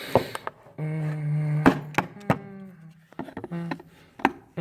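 X-Acto knife cutting through a fridge's thin plastic liner: a low, steady creaking tone as the blade drags through, with several sharp snaps and clicks of the plastic.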